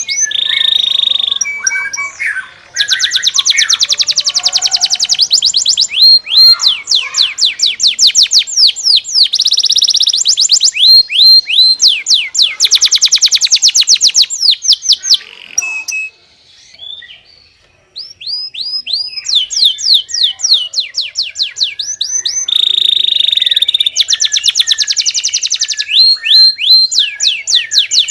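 Domestic canary singing long, fast rolling trills of repeated sweeping high notes, phrase after phrase, with a brief pause a little past the middle.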